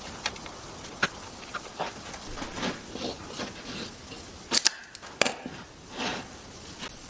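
Irregular light taps and knocks over a steady hiss, with two sharp, louder clacks about half a second apart just past the middle.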